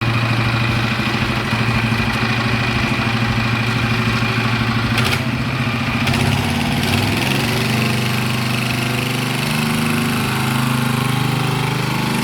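Small go-kart engine running steadily, its note shifting about six seconds in.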